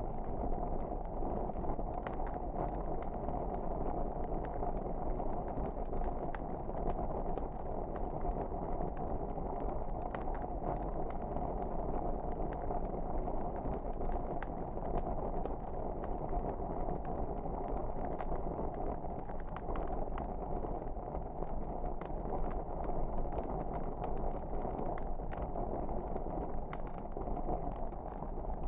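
Wood fire burning: a steady low rush of flames with frequent small, irregular crackles and pops.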